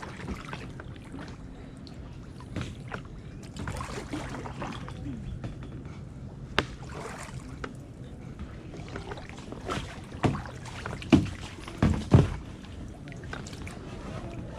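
Kayak paddling: paddle strokes and water over a steady low hum, with a few sharp knocks, one about halfway through and a cluster of loud ones near the end.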